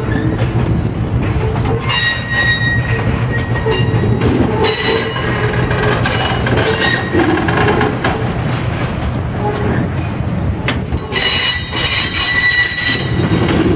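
Passenger railcars rolling past on steel wheels, a steady low rumble on the rails with a high-pitched wheel squeal that comes and goes, loudest near the end.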